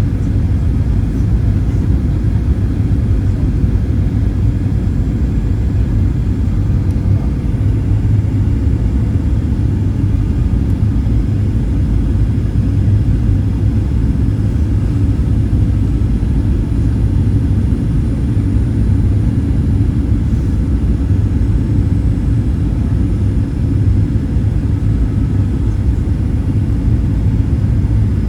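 Steady low rumble inside the passenger cabin of a Boeing 737-800: engine and airflow noise heard from a seat, even throughout with no sudden changes.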